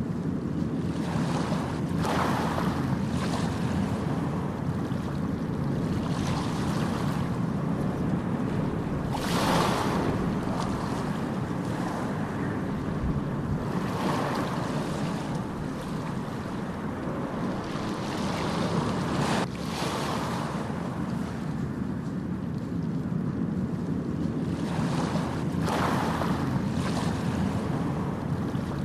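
Ocean surf: a steady low rumble of waves, with a wave surging and washing in every five or so seconds.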